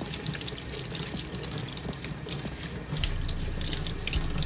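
Tap water running into a sink and splashing as scrubbed shoelaces are rinsed under it; the flow sounds fuller and louder about three seconds in.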